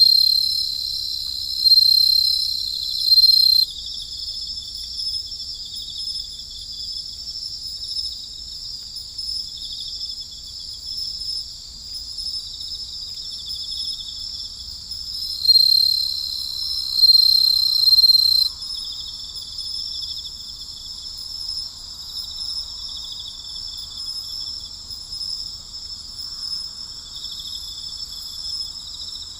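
Night chorus of crickets chirring steadily in a high pitch. A louder, closer insect trill stands out twice, near the start and about halfway through, each lasting about three seconds.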